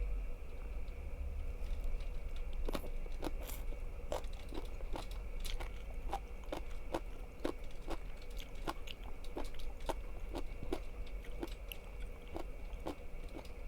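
Crunchy food being bitten and chewed close to the microphone, with sharp crunches about two a second starting a few seconds in.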